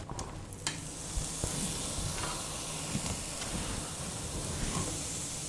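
Diced tofu dropped by hand into a frying pan of hot oil and sizzling, a steady hiss that starts suddenly under a second in and carries on, with a few faint ticks.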